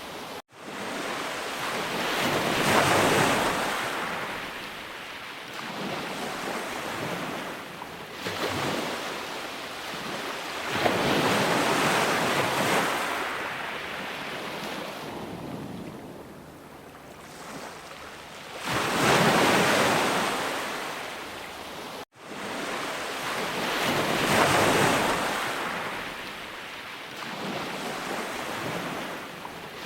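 Ocean waves breaking on a shore, the surf rising and falling in four slow surges several seconds apart. The sound cuts out for an instant twice, near the start and about two-thirds of the way through.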